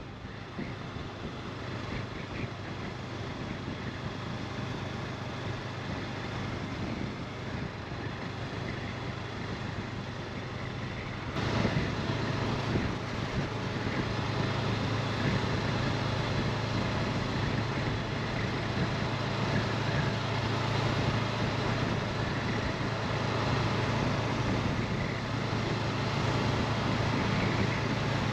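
Honda CB500X parallel-twin engine running steadily under way, mixed with wind and road noise. The whole sound jumps louder suddenly about eleven seconds in.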